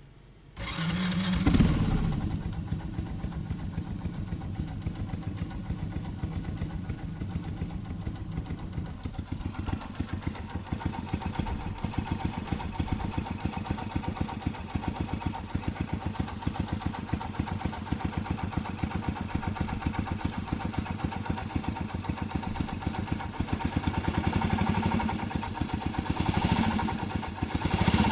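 Bored-up Honda Little Cub's small single-cylinder four-stroke engine starting with a brief rev, then idling with a fast, even ticking clatter, and picking up a little near the end. The clatter is the abnormal engine noise that is still there after a tappet adjustment and a new cam chain tensioner pushrod head and spring.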